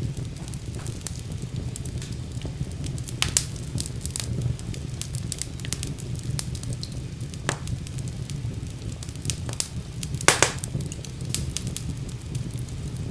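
Wood fire burning in a fireplace: a steady low rumble of flames with frequent crackles and sharp pops, the loudest pops about three seconds in and about ten seconds in.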